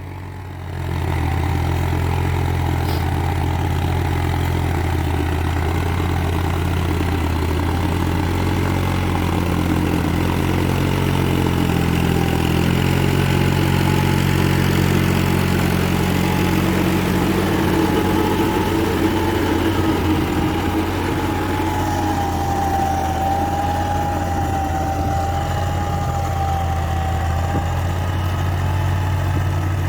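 New Holland 3630 TX Super 4x4 tractor's three-cylinder diesel engine running steadily in second-low gear, its revs picking up about a second in. In the second half a thin, wavering whine rises above the engine note.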